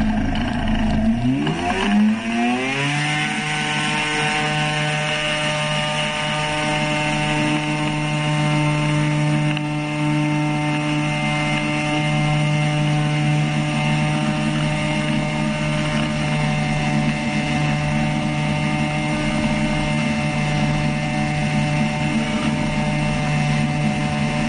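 Homemade flying boat's propeller engine revving up over the first few seconds, then held at a steady high speed, and dropping in pitch right at the end.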